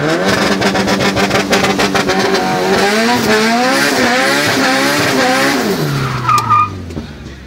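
Turbocharged Honda four-cylinder drag car's engine heard from inside the cabin. It is held at steady revs with rapid popping, then the revs climb and drop in several rising sweeps as it accelerates through the gears. The revs fall away about six seconds in, with a short whistle.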